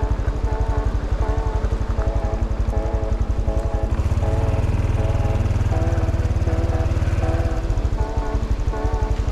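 Honda CT125 Hunter Cub's single-cylinder engine running with a fast, even putter, stronger for a few seconds in the middle. Background music plays over it.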